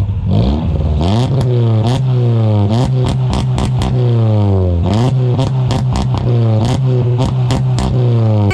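Honda H22A4 four-cylinder engine running and being revved over and over, its pitch repeatedly falling and rising again, with a few sharp clicks among the revs.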